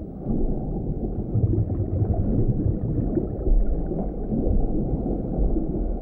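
Underwater ambience: a muffled, low rumbling and gurgling of moving water, swelling and easing without a beat.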